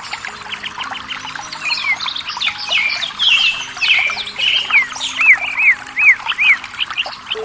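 Several wild birds chirping and calling together, with a run of repeated falling notes in the second half, over a steady background hiss of trickling water.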